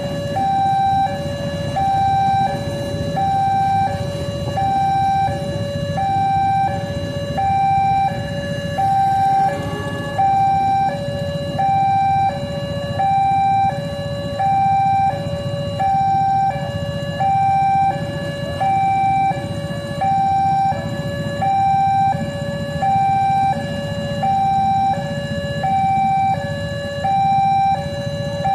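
Electronic two-tone railway level-crossing alarm, alternating steadily between a higher and a lower tone without a break, over a low rumble.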